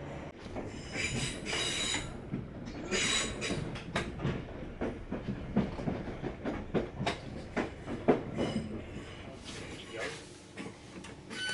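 Class 466 electric multiple unit running, its wheels clicking in an irregular series of clacks over rail joints and pointwork beneath a steady rumble.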